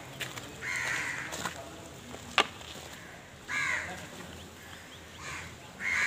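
Birds cawing, several short harsh calls spaced a few seconds apart, with a single sharp click about two and a half seconds in.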